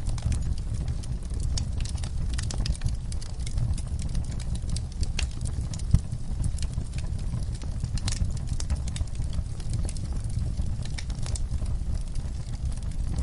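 Wood fire burning in a fireplace: a steady low rumble of flames under irregular sharp crackles and pops, with one louder pop about six seconds in.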